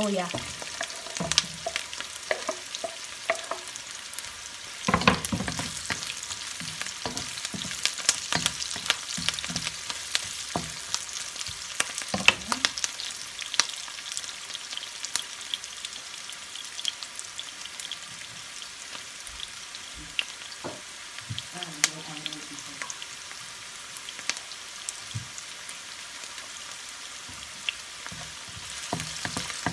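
Chopped onion and ginger strips sizzling in hot oil in a black wok, with a wooden spatula scraping and clicking against the pan as they are stirred. The sizzle is a steady hiss under scattered sharp scrapes, loudest about five seconds in.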